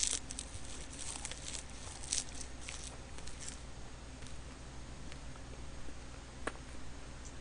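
Close-miked chewing of a mouthful of roasted seaweed (gim) and rice: soft wet crackly mouth sounds in the first few seconds, then faint with a single soft click near the end.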